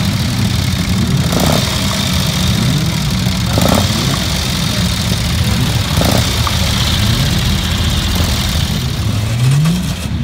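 Vintage racing car engines running, revved up and down over and over, with a sharp crack about every two seconds.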